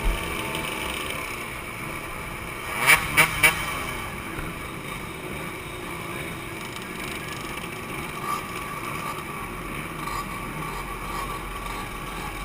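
Two-stroke motorcycles running on a group ride, with three loud, sharp sounds in quick succession about three seconds in.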